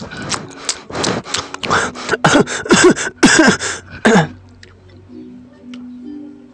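Loud close-miked eating sounds: wet chewing, smacking and crunching of pizza, with a few short falling voice sounds mixed in. These stop after about four seconds, leaving quiet background music with a simple repeating melody.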